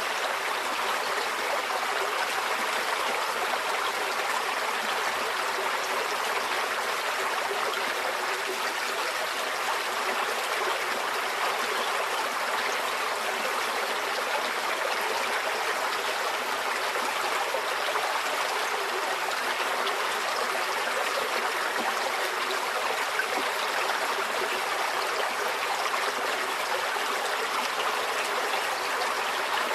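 Shallow stream flowing steadily over stones, a continuous babble and trickle of water.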